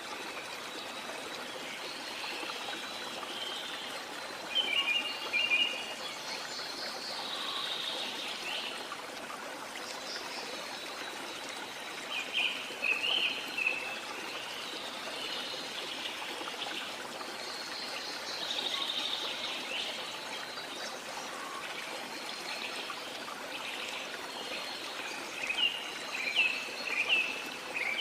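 Water washing steadily as a constant rushing hiss, with small songbirds chirping over it in short quick clusters, a few times and most busily near the end.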